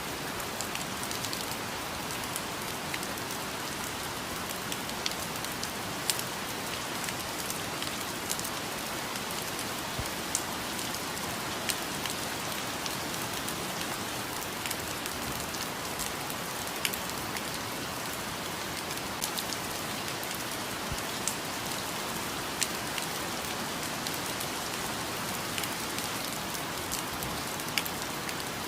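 Steady rain falling, an even hiss with many scattered sharper drop impacts.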